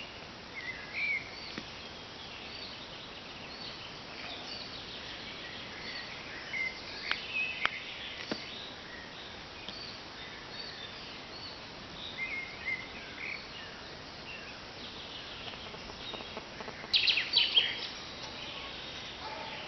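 Woodland birds chirping and calling at intervals over a steady outdoor background hiss, with a louder burst of quick, sharp notes near the end.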